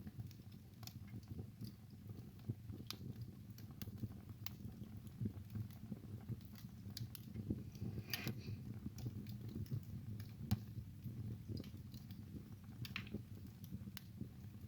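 Wood fire burning in a fireplace: a low steady rumble of flames with irregular sharp crackles and pops, a few louder pops scattered through.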